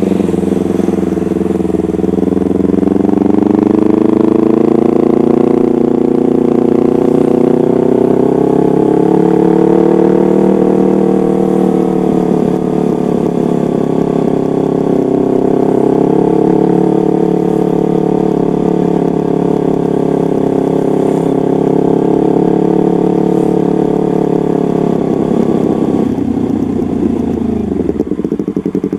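Yamaha MT-25's parallel-twin engine running through a custom exhaust. The revs climb over the first few seconds, hold high with slight rises and falls, and then drop back down near the end.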